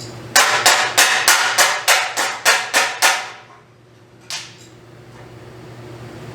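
Rapid hammer blows on metal, about ten sharp ringing strikes in quick succession, then a single blow a second later.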